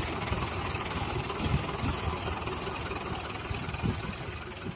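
Mahindra tractor's diesel engine running, a low uneven rumble.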